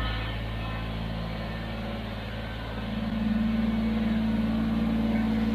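Kubota BX23S tractor's diesel engine running steadily, its speed and loudness picking up about three seconds in.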